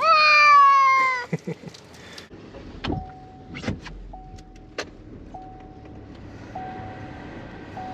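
An Aegean cat gives one long, loud meow that falls in pitch. Then come a few clicks and knocks, and a single-tone electronic chime that repeats about every second, like a car's warning chime.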